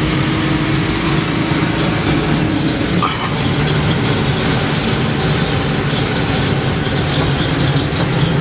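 Scania K410IB double-decker coach under way, heard from inside: a steady drone of engine and road noise. A low steady tone stops about three seconds in, and a faint high whine runs after that.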